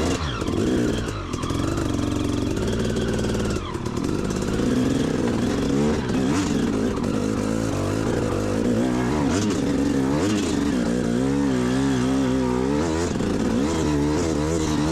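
Motorbike engine revving up and down under the rider's throttle, its pitch rising and falling over and over, more rapidly in the second half.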